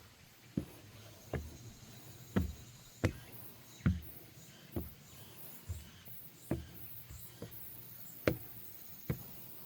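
Footsteps on a wooden deck walkway at a steady walking pace, a little more than one step a second.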